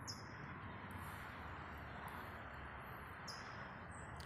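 Small birds giving several short, high chirps, some falling quickly in pitch, over a steady outdoor background hum.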